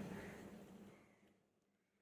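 Near silence: faint room tone that fades away to complete silence about a second and a half in.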